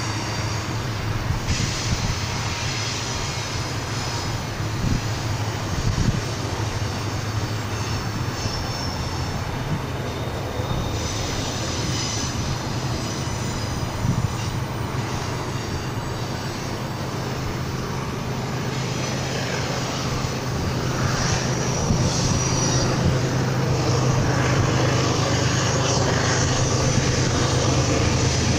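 Double-stack container freight train rolling past on curving track, its steel wheels squealing on and off over a steady rumble. A diesel locomotive's engine hum grows louder from about two-thirds of the way through.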